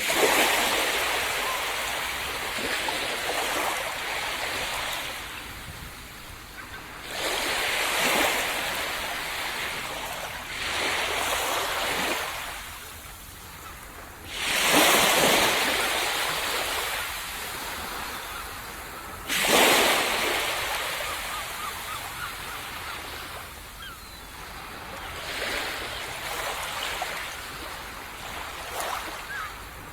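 Ocean waves breaking on a sandy beach and washing back, each surge coming in suddenly and fading over a few seconds, about seven times; the loudest break near the start and about fifteen and twenty seconds in.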